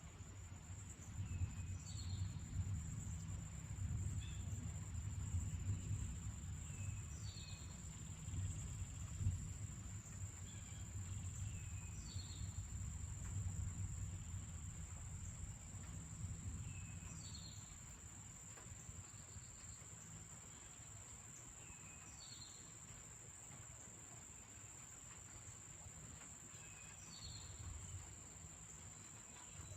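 Distant thunder rumbling low, swelling through the first half and dying away after about seventeen seconds, under a steady high drone of insects. A bird gives a short falling call about every five seconds.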